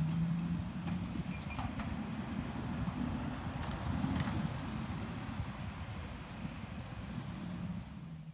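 Garbage truck's diesel engine running with a steady low rumble, its pitch rising a few seconds in as it revs and then settling again, with a couple of faint clanks. The sound cuts off abruptly at the end.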